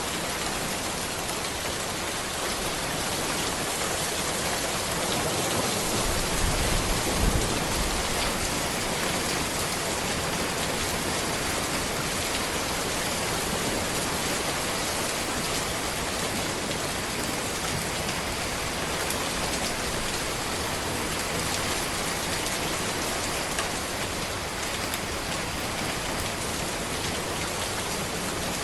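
Steady rain falling on a road, a dense, even hiss. About six seconds in, a brief low rumble swells and fades.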